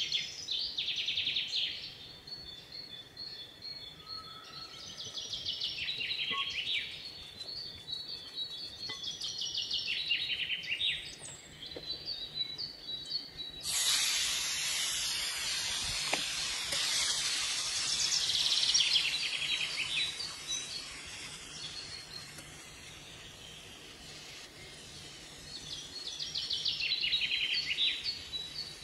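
Bird song: short descending trills repeated every few seconds. About fourteen seconds in, a steady hiss of sizzling starts suddenly and runs on under the birds: chicken strips frying in hot oil in a nonstick pan.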